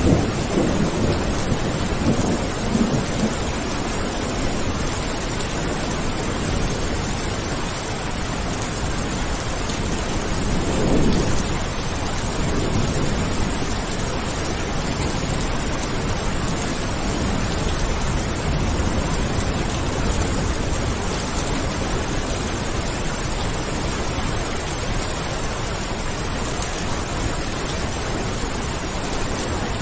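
Heavy rain falling steadily, with low rumbles of thunder near the start and again around eleven seconds in.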